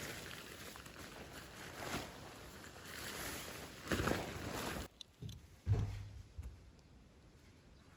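Rustling and handling noises of things being moved about, louder about four seconds in and cutting off suddenly, then a few dull knocks and a low thud.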